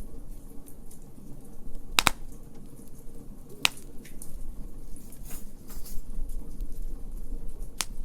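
Wood fire crackling, with three sharp pops (about two seconds in, near the middle, and near the end) and fainter small crackles over a low steady rumble.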